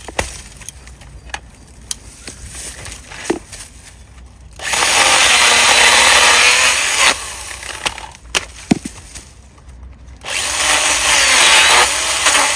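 Small cordless chainsaw cutting through a mountain maple's trunk stub in two runs of a few seconds each, the first about four and a half seconds in and the second about ten seconds in. The motor pitch wavers as the chain bites. Light clicks and snaps of twigs come before the first cut.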